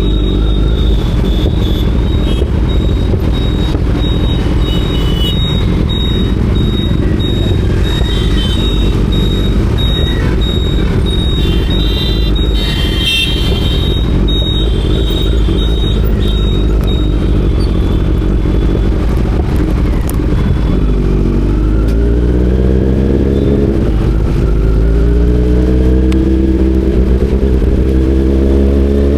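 Kawasaki Z900 motorcycle on the move, with heavy wind and road rumble on the microphone. About twenty seconds in, its inline-four engine note climbs steadily in pitch as the bike accelerates.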